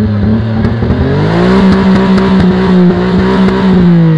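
Car engine revved up to its rev limiter and held there, the revs stuttering as the limiter repeatedly cuts in, then dropping away near the end.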